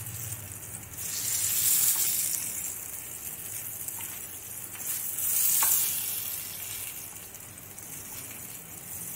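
Eggplant pieces sizzling in hot oil in a frying pan while a wooden spatula scrapes and turns them over. The sizzle swells about a second in and again around five seconds, as pieces are flipped onto their raw sides.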